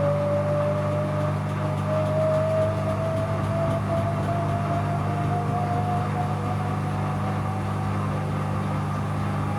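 Bauknecht Super Eco 7615 washing machine's inverter motor running under a steady low hum, with a single whine that rises slowly in pitch as the drum speeds up.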